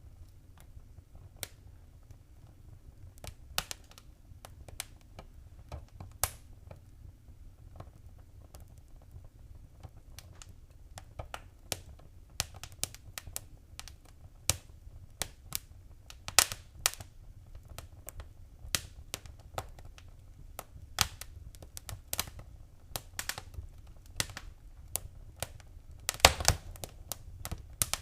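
Wood fire in a fireplace crackling and popping: irregular sharp cracks, sparse at first and coming thicker after about ten seconds, with a loud pop near the end, over a low steady rumble.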